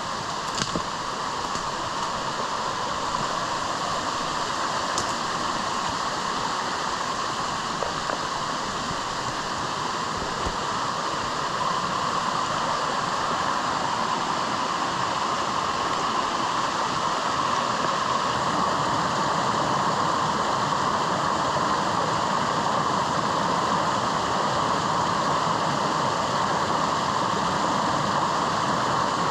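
Steady rushing of strong wind and rain, growing slightly louder partway through, with a few faint ticks near the start.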